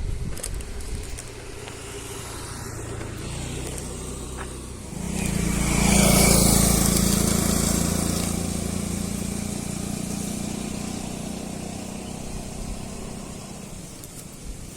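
A motor vehicle passes close by: its engine and road noise swell to their loudest about six seconds in, then the engine hum fades away over the following several seconds.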